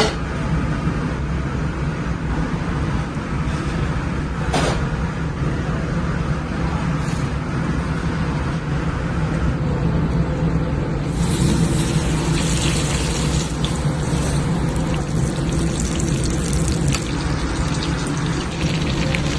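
Chicken frying in oil in a pan, a steady sizzle over a low hum. The sizzle gets louder and more crackly a little past halfway.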